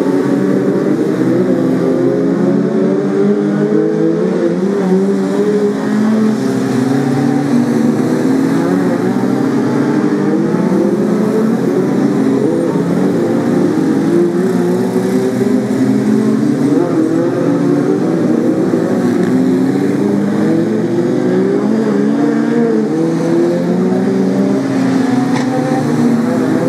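Several Brisca F2 stock car engines racing together, their notes rising and falling over and across one another as the cars accelerate and lift off around the track.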